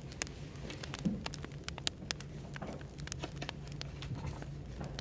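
Firewood burning with irregular crackles and sharp pops over a steady low background hum of café white noise.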